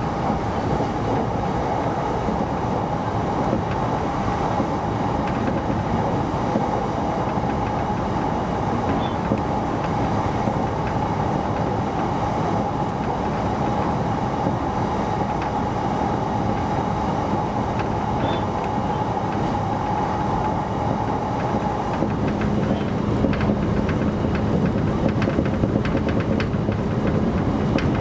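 Electric commuter train running at speed, heard from inside the driver's end: a steady rumble of wheels on rail with a held whine. About three quarters of the way through, the whine gives way to a lower hum, the running grows a little louder, and quick clickety-clack of the wheels starts up.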